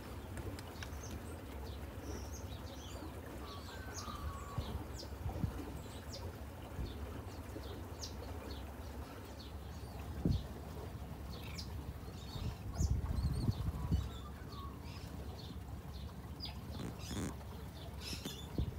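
Small birds chirping and tweeting, many short high calls scattered throughout, over a steady low rumble, with a few louder low thumps in the middle.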